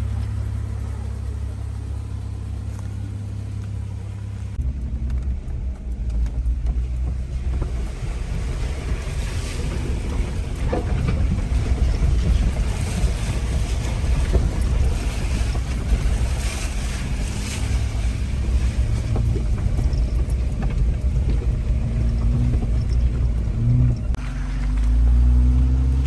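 Jeep engine running steadily, then the Jeep driving off about four and a half seconds in, with a continuous rumble and rushing noise of the drive.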